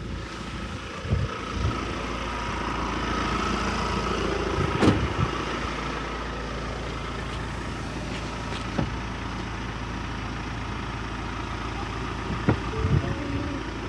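Truck engine idling steadily, with a few sharp knocks along the way.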